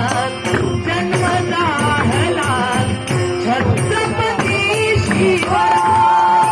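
Devotional folk singing in Dashavatar style, with drum strokes and small cymbals keeping a steady beat. From about five and a half seconds in, one long note is held.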